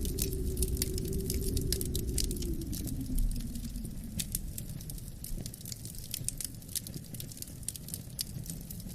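Wood fire crackling in a fireplace, with frequent sharp pops and snaps, over a low rush of wind that eases off about three seconds in.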